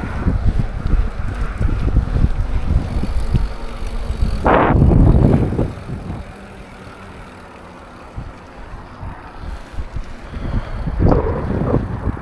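Wind buffeting the microphone of a camera on a moving mountain bike, a low rumble that swells loudly about four and a half seconds in, drops for a few seconds, then rises again near the end.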